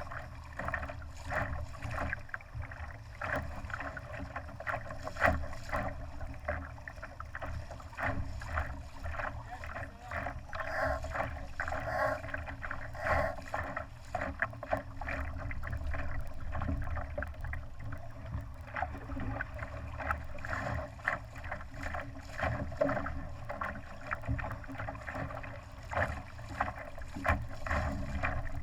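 Water splashing and slapping against the hull of a Laser sailing dinghy under way, with many short irregular knocks and a low rumble underneath.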